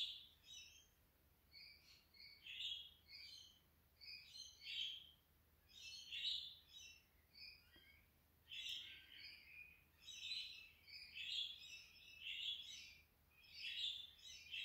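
Faint background birdsong: several birds chirping in runs of short high notes every second or two, coming closer together near the end.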